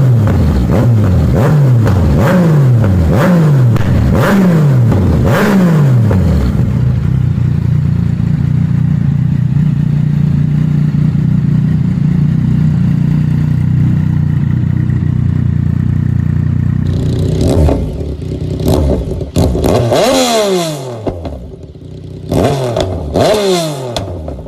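Yamaha MT-09 three-cylinder motorcycle engine being revved through its exhaust: a quick run of about seven throttle blips, each falling back in pitch, then a steady held note for about ten seconds, then further sharp revs with short lulls near the end.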